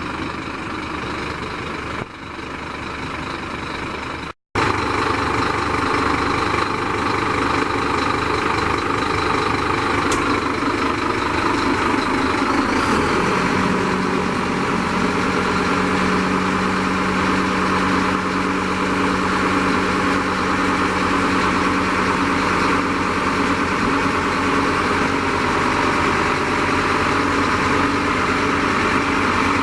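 Scania P310 tipper truck's diesel engine idling steadily. The sound drops out briefly about four seconds in and comes back louder. About thirteen seconds in the engine note shifts and settles into a steadier hum.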